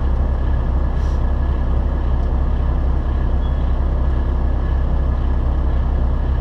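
Steady low drone of a semi truck's engine and road noise heard inside the cab while driving, with a faint steady high whine above it.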